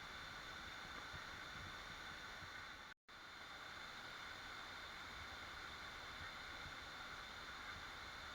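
Waterfall rushing in a steady hiss of falling water, which cuts out completely for a split second about three seconds in.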